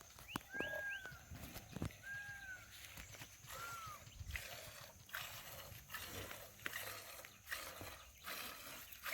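A few short whistled bird calls, three arched notes in the first four seconds, over faint scattered taps and clicks.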